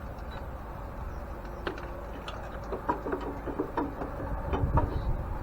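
Light, irregular clinks and knocks of hand tools and metal parts being handled while an antique grain mill is taken apart. They come more often toward the end, over a low steady rumble.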